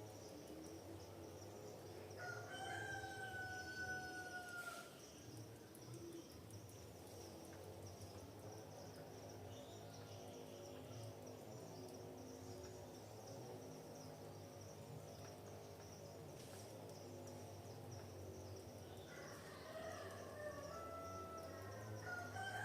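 A rooster crowing twice, faintly, about two seconds in and again near the end. Each crow ends in a long, slightly falling held note, over a steady high-pitched insect buzz.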